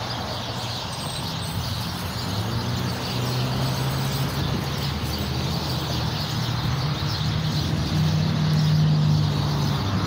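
Massed chatter of a large flock of birds gathering in trees at sundown, a dense unbroken din. A motor vehicle's engine hums underneath, growing louder in the second half and loudest near the end.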